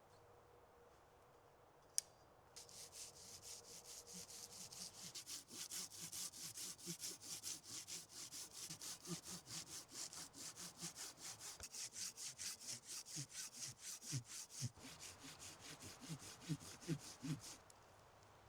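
Hand saw cutting through wood in steady, rapid back-and-forth strokes, stopping abruptly near the end. A single sharp click comes just before the sawing starts.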